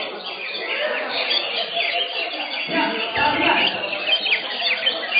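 Many caged greater green leafbirds (cucak hijau) singing at once in competition: a dense, unbroken tangle of overlapping chirps and whistled glides, with people's voices murmuring underneath.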